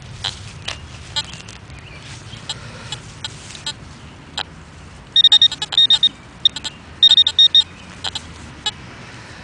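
Metal-detector pinpointer probe beeping rapidly in two bursts a little past halfway, signalling a coin target in the dig hole. Scattered small clicks and scrapes of digging and handling in soil, over a low steady rumble.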